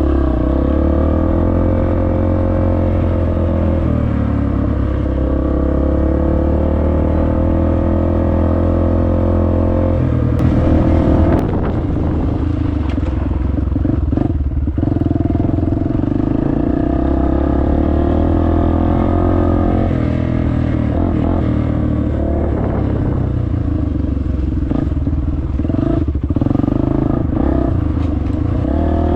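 Dirt bike engine running under way, its revs rising and falling with throttle and gear changes. About ten seconds in there is a brief, louder rattling stretch.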